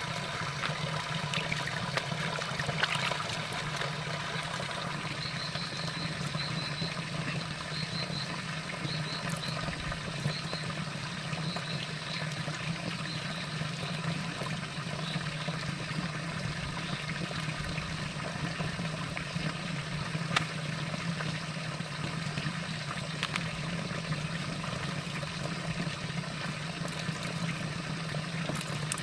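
Steady running water, like a stream or trickle, over a constant low hum. A faint, high, repeated chirping comes in for about ten seconds in the first half.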